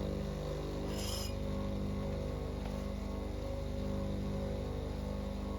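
6-inch bench grinder's motor running steadily with a low hum, with a brief hiss about a second in.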